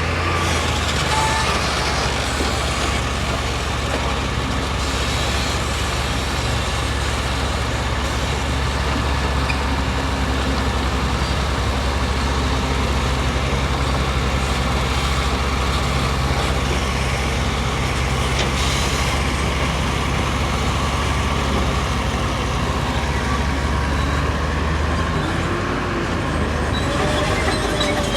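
Heavy diesel construction machine running steadily with a low drone; the engine note drops about 25 seconds in.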